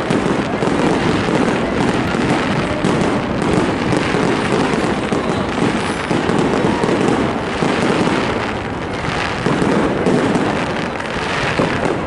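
Fireworks display: a dense, continuous barrage of aerial bursts and crackling.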